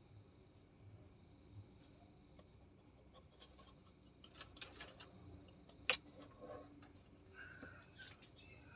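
Near-silent room tone: a faint, high, steady whine with a few soft clicks and rustles. The sharpest click comes about six seconds in.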